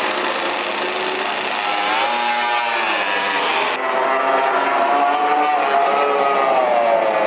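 MotoGP racing motorcycle engine running hard on the track, its pitch rising and falling with revs and gear changes. The sound changes abruptly about four seconds in.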